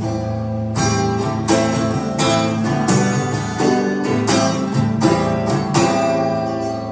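Acoustic guitar strummed in a steady rhythm, a chord struck about every three-quarters of a second, playing live music with no singing.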